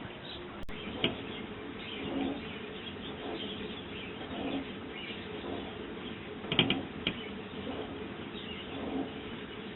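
Garden birds chirping, with a low call that repeats about every two seconds and a few short, sharp clicks.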